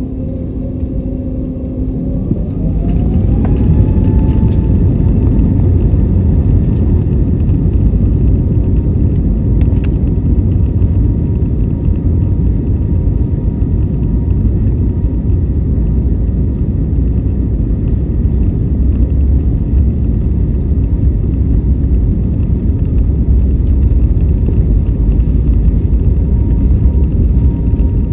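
Airbus A320neo jet engines spooling up to takeoff power: about two seconds in, a whine rises in pitch and the sound swells sharply, then settles into a loud, steady rumble with a faint steady whine.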